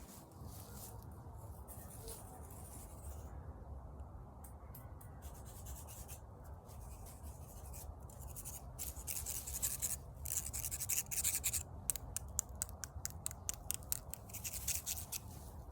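Scratchy rubbing and scraping noises over a low steady hum, growing denser and louder in the second half, like something rubbing close against the microphone.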